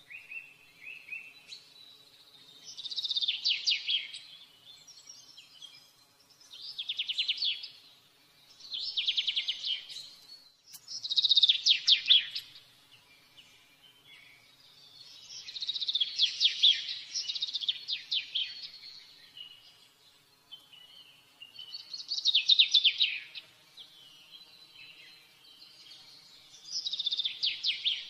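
A songbird singing: bursts of rapid, high-pitched trilling chirps, each lasting a second or two, repeated every few seconds with short pauses between.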